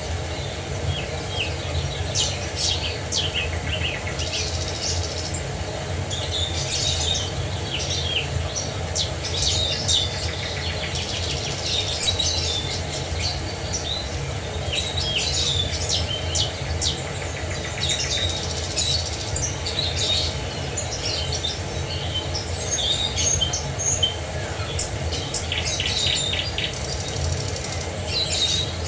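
Several songbirds chirping and trilling over a steady low rush of falling water.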